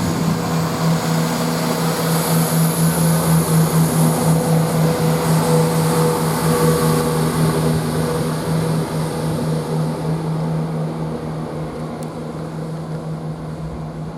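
Class 170 Turbostar diesel multiple unit's underfloor diesel engines running under power as the train pulls out, a steady drone that fades gradually over the last several seconds as it draws away.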